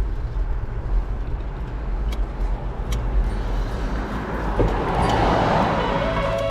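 Wind rumbling over the microphone of a moving bicycle, with road-traffic noise swelling to a peak about five seconds in as a vehicle goes by.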